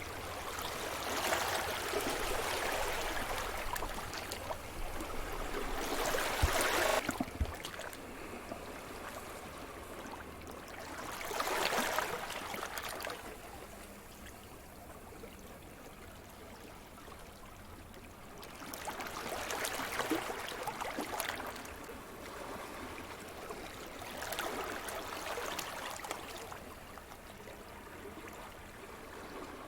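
Sea surf: waves breaking and washing up the shore one after another, each a swelling rush of hiss that fades away, about every five to eight seconds, with a quieter wash between them.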